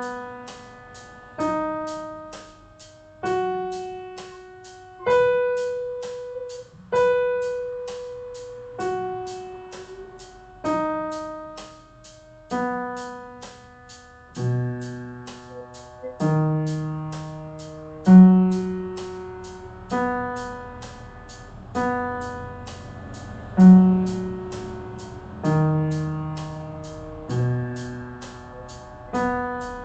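Piano playing a B major arpeggio (B, D sharp, F sharp, B) up and down in slow, even half notes, one note about every 1.8 seconds, each struck and left to ring and fade. About halfway through, the arpeggio moves down into the lower octaves.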